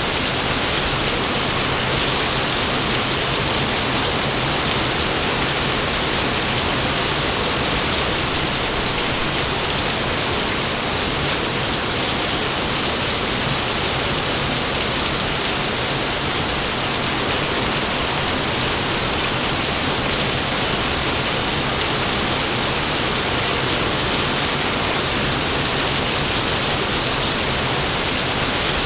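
Heavy rain falling in a steady, unbroken downpour, with no thunderclap in this stretch.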